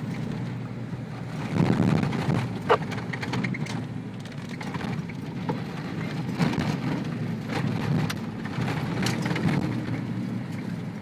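Ford Bronco prerunner driving a rough dirt trail, heard from inside the cab: a steady engine and road drone with scattered knocks and rattles from the bumps, one sharp knock about three seconds in.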